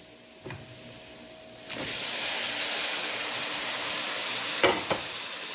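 Chopped tomatoes and fried onions sizzling in hot oil in a kadhai. The sizzle is faint at first, then jumps up loud and steady about two seconds in as the tomatoes hit the oil, with a few knocks of a wooden spatula near the end.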